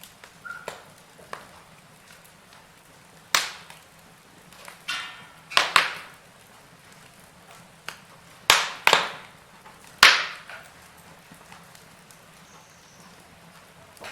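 Fire crackling in a fireplace: a low steady hiss broken by scattered sharp pops, several loud ones between about three and ten seconds in.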